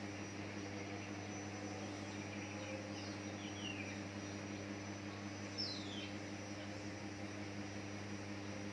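A few short, falling whistled notes of a greater green leafbird (cucak ijo), about three seconds in and again near six seconds, over a steady low hum.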